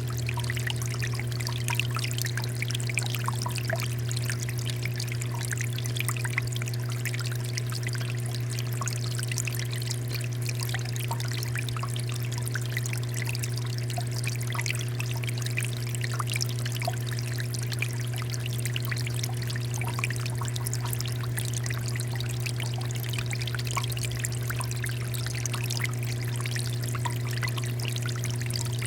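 Water fountain splashing and trickling steadily, over a constant low hum.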